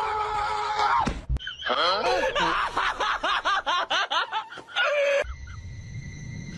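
Laughter in a quick run of short high-pitched bursts lasting a few seconds, then a cut to a steady low hum.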